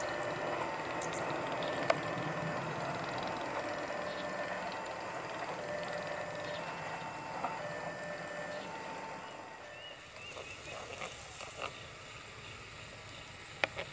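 A passing train fading into the distance, its running noise dying away over about ten seconds, with a few short steady ringing tones along the way. A single sharp click near the end.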